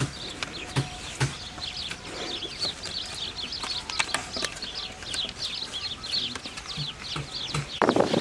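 Birds chirping over and over in quick short calls, with a few soft knocks, and a louder burst of rustling near the end.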